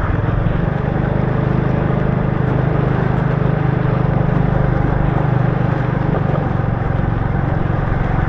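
Motorbike engine running steadily at cruising speed, a low drone under a constant hiss of rain and tyres on the wet road.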